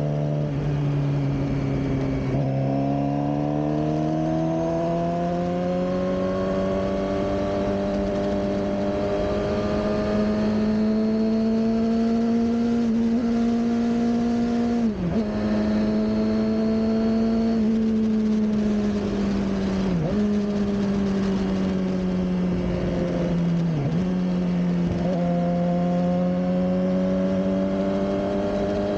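Suzuki GSX-R600 K7's inline-four engine running under way. There is a sharp step up in pitch about two seconds in, then the note climbs slowly through the first half. Three brief dips in pitch follow around the middle and later on.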